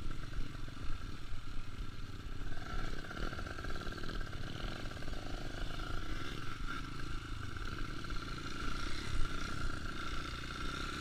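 Trail motorcycle engine running steadily while it is ridden, a continuous low rumble with a steady higher tone over it.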